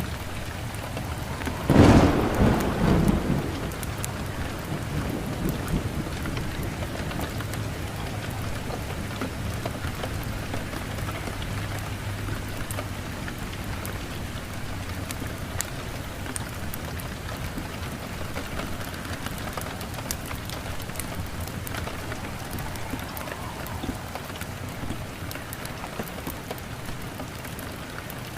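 Steady rain falling, with a loud clap of thunder about two seconds in that rumbles away over a second or two.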